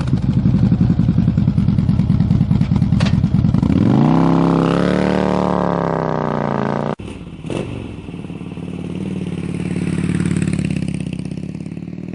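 2011 Harley-Davidson CVO Road Glide Ultra's Twin Cam 110 V-twin running through a Rinehart true dual exhaust. It idles with a pulsing beat, is revved up about four seconds in and falls back. About seven seconds in the sound drops suddenly, and the engine runs on more quietly, swelling a little near the end.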